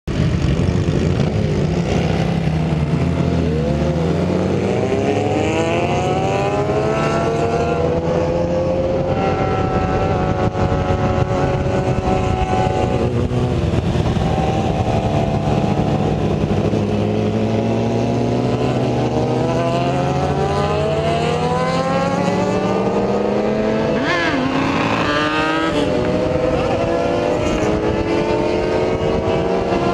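Sport bike engine under way, its pitch climbing slowly under acceleration and dropping back several times as the rider changes gear or rolls off.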